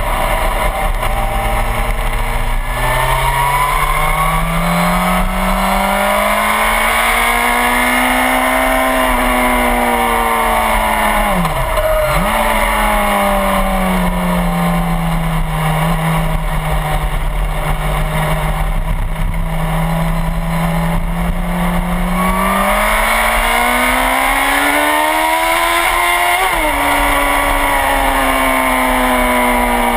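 Suzuki GSX-R1000 inline-four engine under way, its pitch climbing as the bike accelerates, dipping sharply for a moment and recovering, holding steady, then rising again before dropping abruptly at a gear change near the end, with a steady rush of wind throughout.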